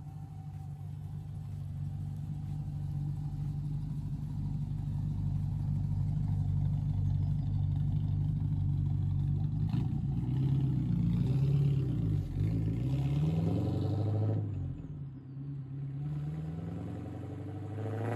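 Rover P6 3500S's 3.5-litre V8 running as the car drives past and away, growing louder over the first few seconds. Its pitch rises and falls several times between about ten and fourteen seconds in as the car is driven on, and it drops away briefly near fifteen seconds.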